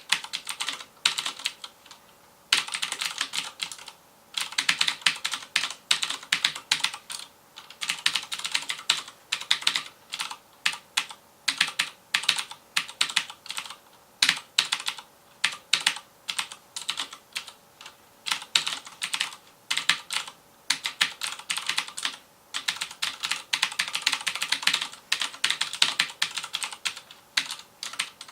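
Rapid typing on a FILCO Majestouch Convertible 2 mechanical keyboard with clicky Cherry MX Blue switches: quick runs of keystrokes broken by short pauses.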